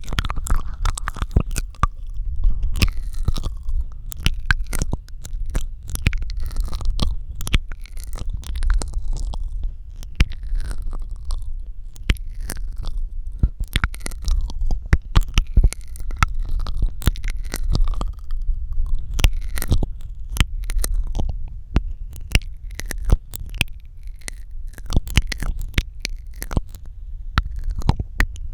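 Close-miked ASMR mouth sounds: rapid, irregular wet clicks and smacks of lips and tongue, over a low steady rumble.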